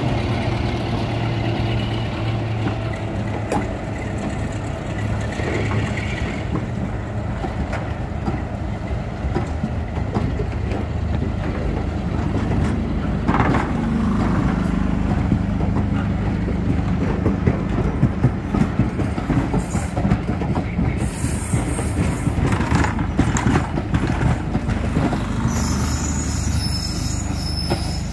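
Passenger coaches of a diesel-hauled heritage train rolling past at low speed, their wheels clacking and knocking over rail joints. A low diesel engine drone dies away in the first second. High-pitched wheel squeal comes in towards the end as the train moves off.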